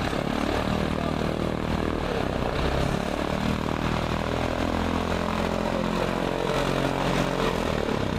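Propeller-driven light aircraft engine running steadily, its pitch shifting slightly partway through.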